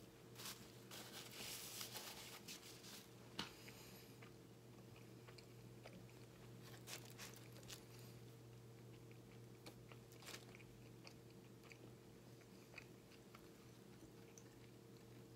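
Quiet close-up chewing of a bagel sandwich with egg, ham, bacon and cheddar: soft crunches and wet mouth clicks, busiest in the first few seconds, over a faint steady hum.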